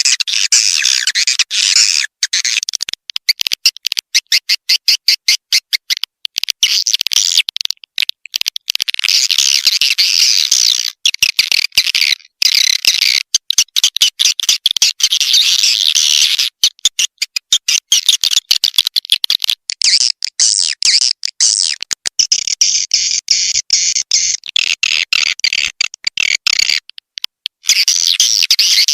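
Swiftlet lure call recording: dense high twittering and chirping of swiftlets laced with rapid clicks, in looped segments that start and stop abruptly. It is the kind of call track played from a swiftlet house to attract the birds to roost and nest.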